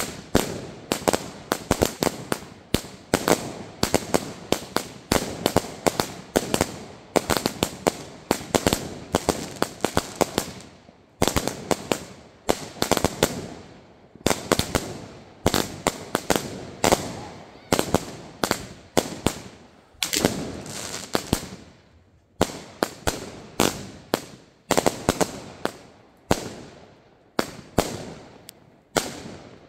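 Fireworks going off in quick succession: volleys of sharp bangs and crackling bursts, a new volley about every second, with short lulls about 11 and 22 seconds in.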